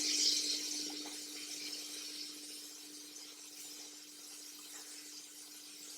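Hot oil sizzling as chicken fries, fading away over the first second or two, leaving a faint steady low hum and a few faint clinks.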